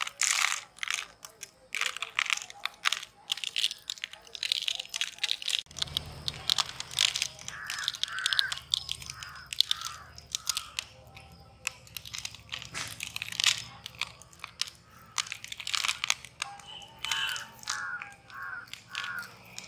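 Crisp crunching and chewing of food: a dense run of sharp crackles bite after bite, with a low hum coming in about six seconds in.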